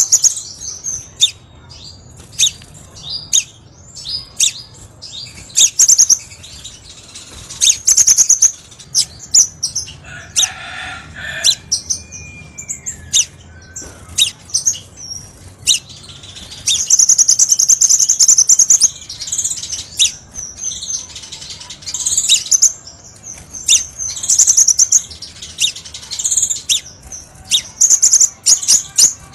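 Crimson sunbird singing: rapid high-pitched trills and sharp chips, repeated again and again. A longer fast trill comes midway through, and a lower, brief call comes about ten seconds in.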